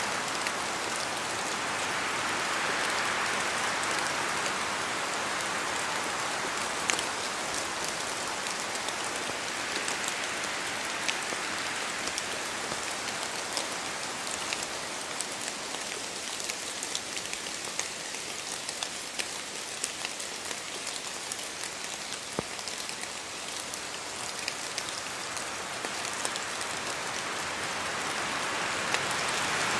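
Steady rain falling on forest trees, a constant hiss that swells and eases as the wind gusts, with many single drops ticking sharply through it.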